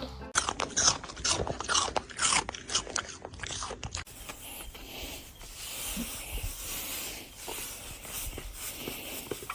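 A quick run of sharp crunching clicks for about four seconds, then, after an abrupt change, fainter scattered clicks.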